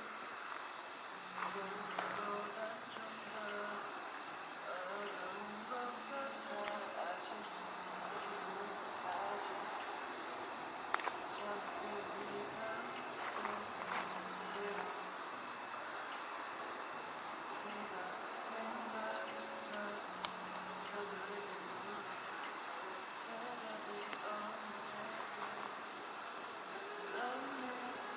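Crickets trilling steadily in a high, continuous chorus, with a few sharp crackles from a wood campfire. Faint music with held, changing notes plays underneath.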